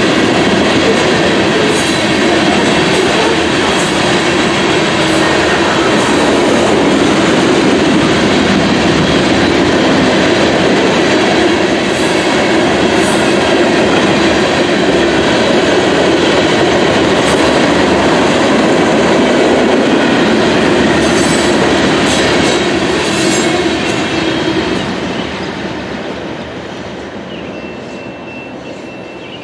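Loaded freight train of grain cars rolling past close by: a steady rumble of steel wheels on rail with clicking over the joints and several brief high wheel squeals. The sound falls off over the last five seconds or so.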